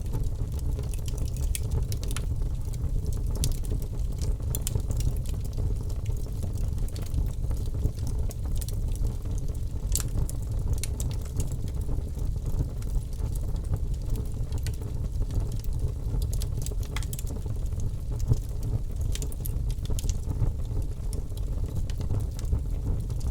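Wood fire crackling, with frequent irregular pops and snaps over a steady low rumble.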